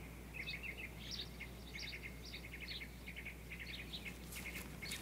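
Small birds chirping: many quick, high chirps in clusters over a faint, steady low hum.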